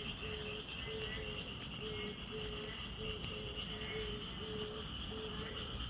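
Frog chorus of narrow-mouthed toads, black-spotted pond frogs and Japanese tree frogs calling together: a short low call repeats about twice a second over a steady high-pitched chorus.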